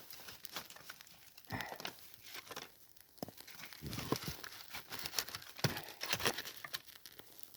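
Dry bark and cotton-wool tinder crackling and rustling, with irregular short snaps, as a small campfire is just catching.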